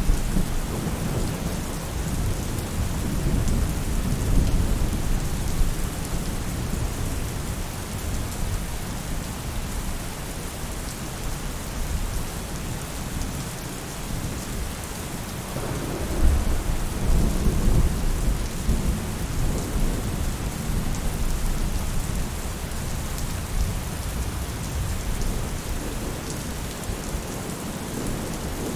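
Steady rain falling on a roof, an even hiss. Low rolls of thunder rumble under it near the start and again about halfway through.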